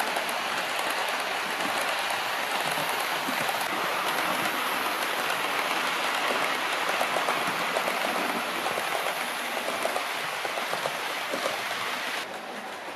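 Model trains running on the layout's track: a steady rolling rattle and hiss with fine clicks, which drops suddenly in level near the end.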